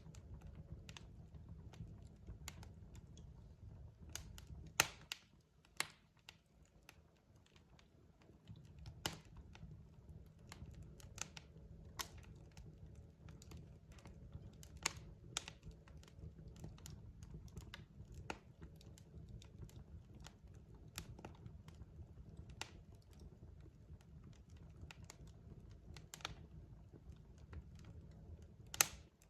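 Wood fire crackling in a fireplace: irregular sharp pops and snaps from the burning logs, a few louder ones about five seconds in and near the end, over a low steady rumble of the flames.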